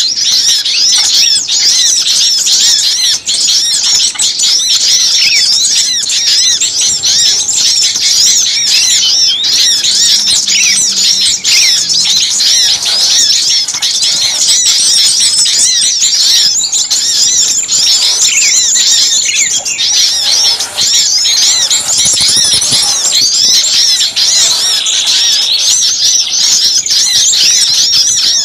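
A dense, agitated chorus of many small songbirds, all chirping and calling rapidly over one another in high, quick notes. This is a bird-lure recording made to draw small birds in.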